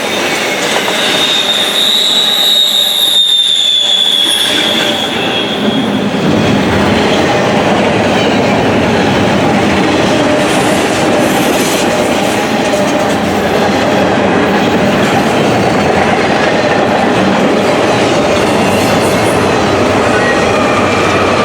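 Cars of an intermodal freight train rolling past, with a high wheel squeal in the first few seconds that falls slightly and fades, then steady wheel rumble and clatter on the rails.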